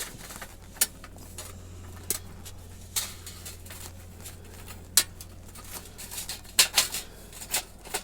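Thin titanium fire-pit plates being handled, giving scattered light metallic clicks and clinks, the sharpest about five seconds in and a small cluster near the end, over a faint steady low hum.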